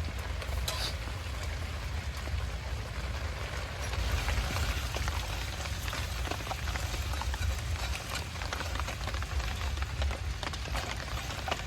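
Light rain falling, with many small drops pattering steadily, over a low steady rumble.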